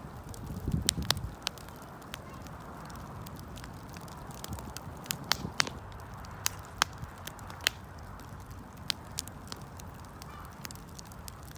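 Wood fire crackling, with scattered sharp pops and snaps over a steady low rush of burning; a quick cluster of louder crackles comes about a second in.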